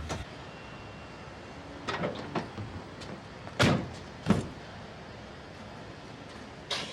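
Van sliding door being worked: a few knocks and thumps, the two loudest about three and a half and four and a quarter seconds in.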